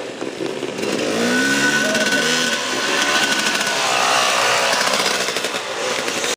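Dirt bike engine revving, its pitch rising and falling about a second in, then running on with a buzzing note.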